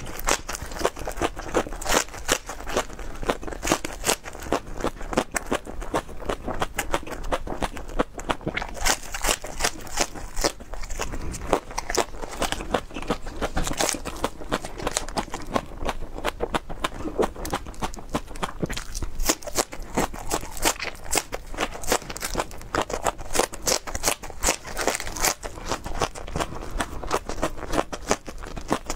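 Raw green onion (scallion) stalks being bitten and chewed close to a clip-on microphone: a dense run of crisp crunches and snaps, several a second throughout.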